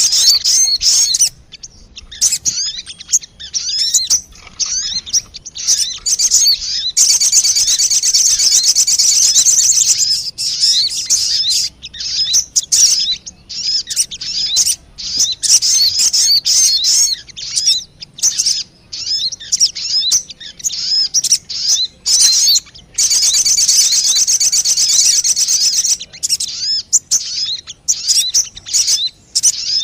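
Sogon bird lure call: quick, high chirps repeated in bursts, breaking twice into a dense, continuous trill lasting a few seconds each.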